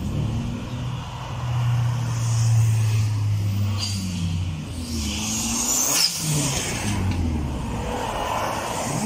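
Stunt car engine revving, its pitch rising and falling. There is a steady low drone for the first few seconds and a brief high squeal about six seconds in.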